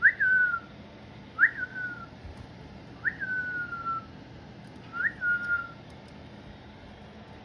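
Cockatiel whistling four calls, about one to two seconds apart. Each call jumps sharply up in pitch, then falls away into a held, slowly dropping whistle.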